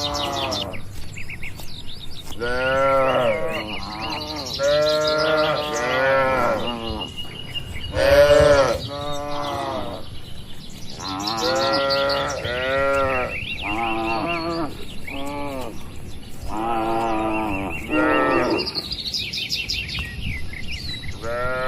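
Cattle mooing over and over, a string of short calls that rise and fall in pitch, coming in groups every couple of seconds. Small birds chirp faintly in the background.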